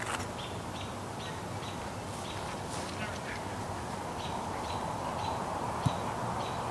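A bird calling over and over in short, high notes, several a second with small gaps, over steady outdoor background noise. A single sharp knock sounds near the end.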